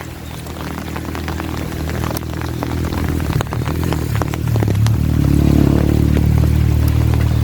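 A motor vehicle's engine running and drawing closer, growing louder and loudest near the end, over rain with scattered drop ticks.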